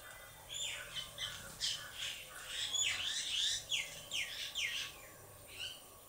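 Tailorbird calling: a fast run of loud, sharp chirps, each note sliding down in pitch. The notes start about half a second in, come thickest in the middle and thin out near the end.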